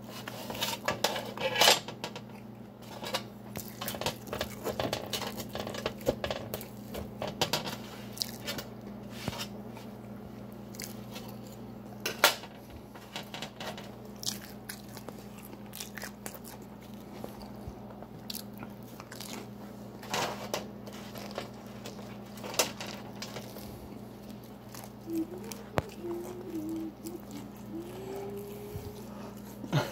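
Biting, crunching and chewing of crisp thin-crust pizza, with scattered sharp crackles and a few louder crunches, over a steady low hum.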